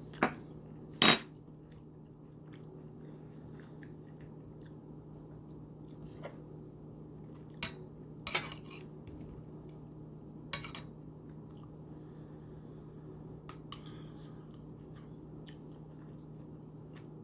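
A handful of sharp clinks of a utensil against a dish or pot, scattered irregularly, the loudest about a second in and a quick cluster past the middle, over a steady low hum.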